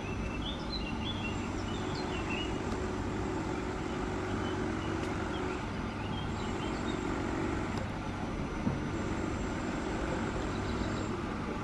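EN57 electric multiple unit moving slowly while shunting, a steady low running hum. Faint bird chirps in the first three seconds or so.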